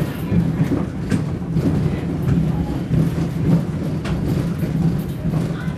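A train's wheels running over the rails: a steady low rumble with a few faint clicks, heard from inside the rear car of the moving train.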